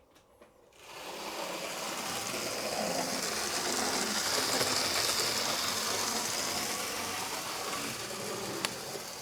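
HO scale model locomotive running along the track: the whir of its small electric motor and gears with wheel-on-rail hiss. It starts about a second in, grows louder towards the middle and eases a little, with a single click near the end.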